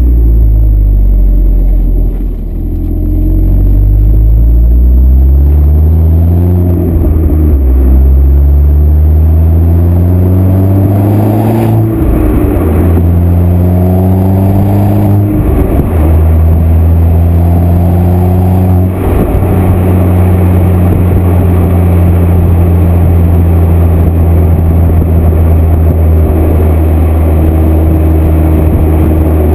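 Exhaust of a Seat Leon Cupra R's turbocharged 2.0 TSI four-cylinder, fitted with a downpipe and high-flow sports cat on the stock cat-back, under acceleration. The note rises steadily through a long pull, drops with three upshifts near the middle, then holds a steady pitch as the car cruises.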